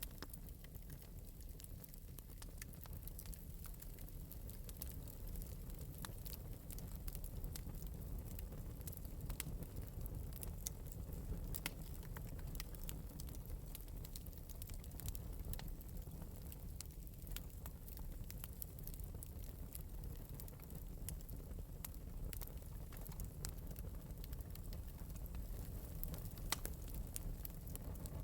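Wood fire burning in an open metal fireplace, lightly crackling with scattered small pops over a steady low rumble.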